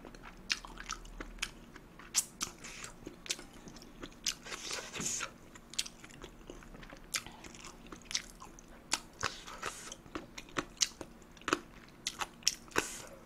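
A person chewing food close to the microphone: an irregular run of short wet smacks and clicks from the mouth, with no talking.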